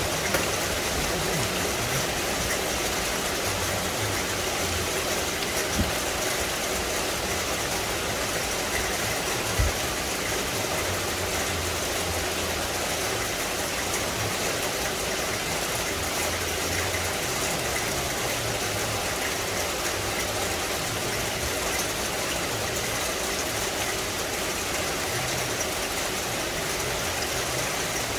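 Steady rain falling in a tropical forest, an even hiss of drops on leaves, with a couple of sharper single knocks of larger drops.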